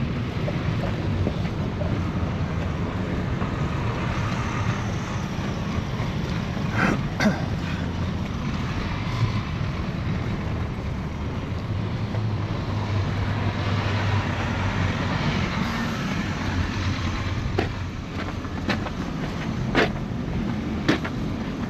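Steady storm wind on the microphone over the low rumble of a city street, with a few sharp clicks late on.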